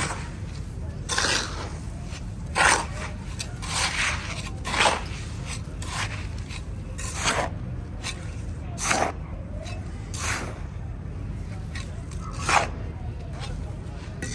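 Repeated scraping strokes, a dozen or so at irregular intervals of about a second, as sand-cement paste is worked with a tool.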